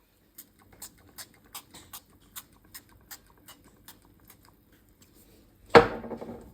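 About a dozen light clicks, roughly three a second, then a loud metallic clank with a short ringing decay near the end, like cookware being set down in a kitchen.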